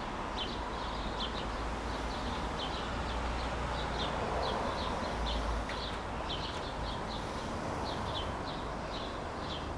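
A small bird chirping repeatedly in short, high chirps, about two or three a second, over steady low background noise.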